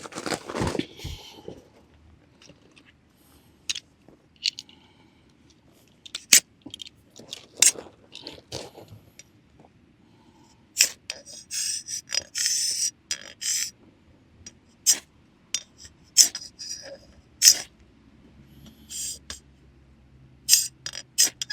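Irregular handling noises: short clicks, knocks and scrapes of things being moved and worked by hand, with a longer spell of scraping about halfway through.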